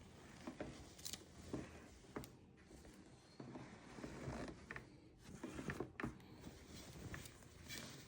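Light handling noises: irregular small clicks and knocks at a low level, over a faint background hum.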